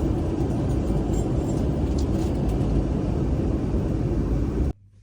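Steady low rumble of a moving vehicle, which cuts off abruptly near the end.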